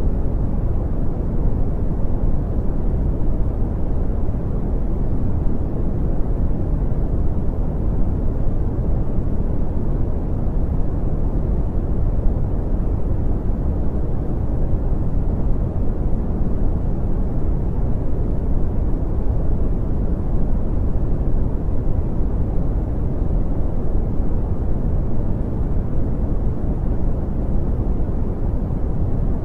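Steady brown noise: a continuous deep rushing hiss, strongest in the bass and fading toward the treble, unchanging throughout.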